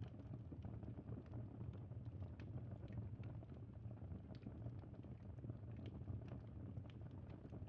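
Campfire crackling: irregular small snaps and pops over a steady low rumble.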